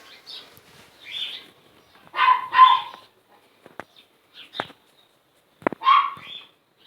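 A small dog barking about four times, two barks close together a couple of seconds in and one more near the end, with faint bird chirps and a few sharp clicks between them.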